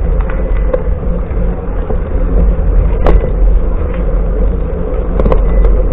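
Wind buffeting the microphone of a camera riding along on a bicycle: a steady low rumble, with a few sharp clicks and knocks, the loudest about three seconds in.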